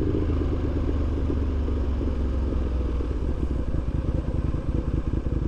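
Aprilia RSV1000's V-twin engine running as the motorcycle is ridden, steady at first and then settling into an uneven low-rev pulse from about halfway through.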